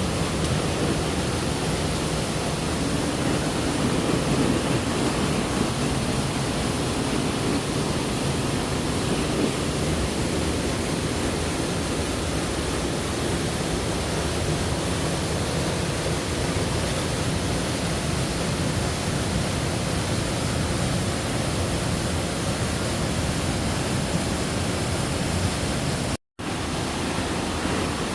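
Waterfall: steady rush of falling water, with a momentary drop to silence near the end.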